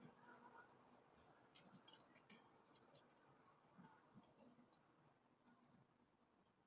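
Faint, high-pitched squeaky chirps of a blue-crowned hanging parrot (serindit): a quick run of notes starting about a second and a half in, then a few scattered single notes.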